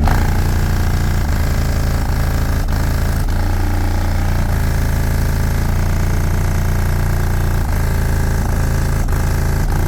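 A car engine idling steadily and loudly close by, its low, even exhaust note pulsing with each firing.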